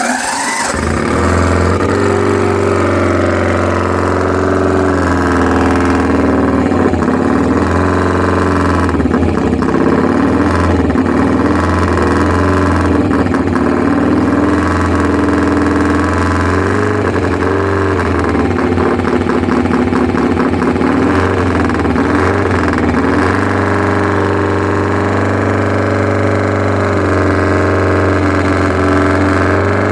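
The 1953 Matchless G45's 500cc twin-cylinder race engine bursts into life and runs on at a lively idle. Around the middle, the throttle is blipped so the revs rise and fall several times.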